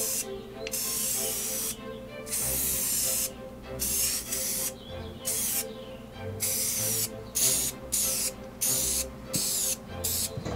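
Aerosol spray paint can spraying in a series of hissing bursts: long sprays at first, then shorter, quicker ones.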